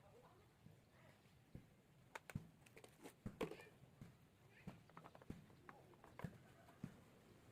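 Faint, irregular light knocks and clicks over a quiet room, a dozen or so spread through the stretch, as of things being handled.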